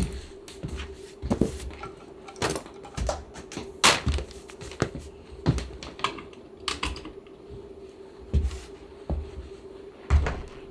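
Irregular sharp clicks and knocks of hand work on a chair being reupholstered, roughly one a second, over a steady low hum.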